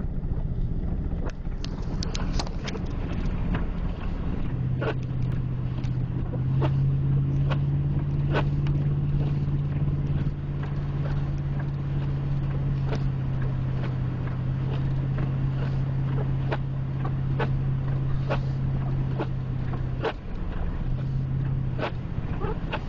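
Truck cab noise while driving: steady engine and road rumble with a low drone that drops out briefly near the end, and scattered sharp ticks throughout.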